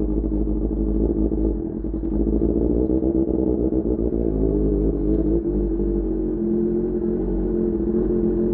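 QJMotor SRK600's inline-four engine running through an Austin Racing GP1R exhaust. Its pitch wavers up and down through the first half, then holds steady.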